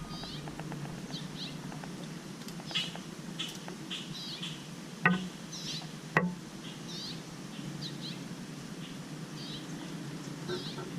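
Small birds chirping and tweeting in quick, repeated short calls, with two sharp knocks about five and six seconds in.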